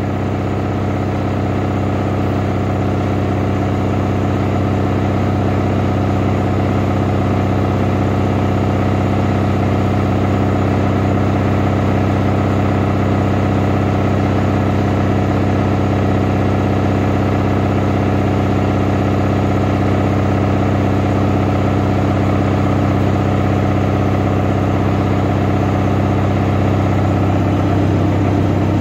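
Samsung washing machine running with a loud, steady low drone that stays unchanged throughout, loud enough to drown out a voice. It is the noise of a washer vibrating so hard that the owner feels the whole house shake.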